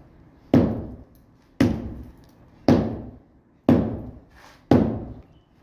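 Five heavy blows, about one a second, each dying away over roughly half a second.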